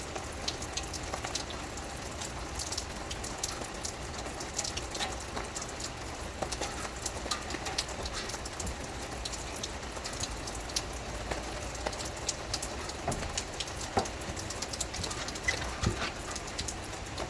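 Steady rain falling, with many scattered drops ticking sharply on a hard surface over an even hiss.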